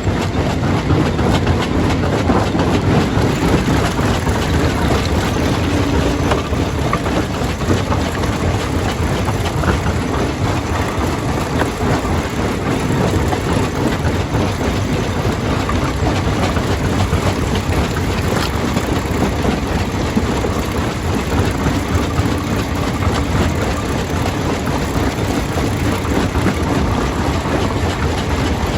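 Stone crusher working: a steady, loud machine noise with a dense crackle of rock being broken and ground.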